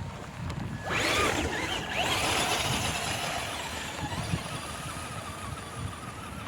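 Traxxas Slash 2WD RC truck's electric motor whining up in pitch as it takes off about a second in, with a hiss of tyres on wet grass, then holding a steady high whine at speed.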